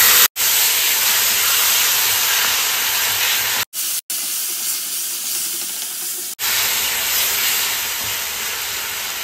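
Colocasia leaves and spiced masala sizzling as they fry in a stainless-steel kadai while being stirred with a wooden spatula: a steady hiss, briefly cut off near the start and again around the middle, and softer for a couple of seconds after the middle.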